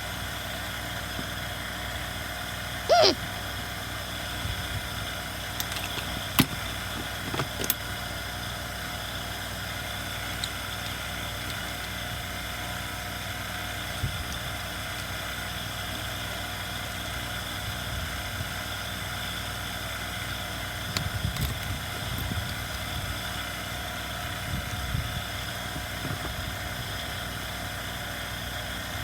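Steady machine-like hum in the background, with scattered clicks and knocks of tools and small parts being handled, and a short high-pitched squeak about three seconds in.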